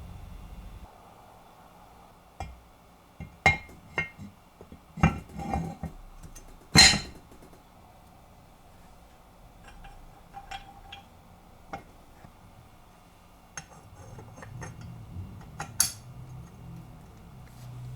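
Metal parts of a hand-cranked meat grinder clinking and knocking together as it is assembled, in scattered separate strikes, the loudest about seven seconds in.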